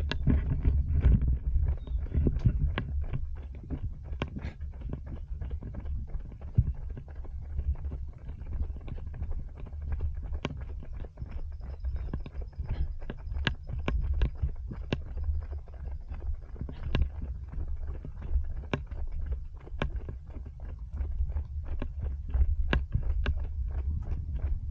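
Running footsteps, about three strides a second, picked up by a small camera worn on the runner, over a steady low rumble of wind and movement on its microphone.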